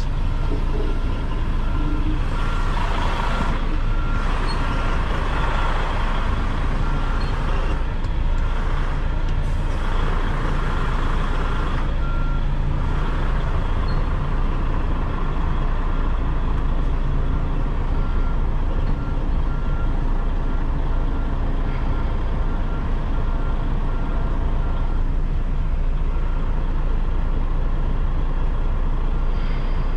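Semi truck's diesel engine running at low speed while reversing, with a high back-up alarm tone sounding through much of it. Patches of hiss come and go in the first twelve seconds.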